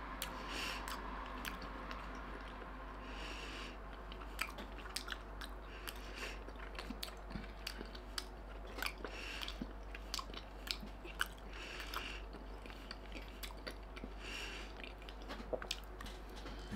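A man chewing a mouthful of piri piri chicken wrap, with frequent small clicks of the mouth, then taking another bite near the end.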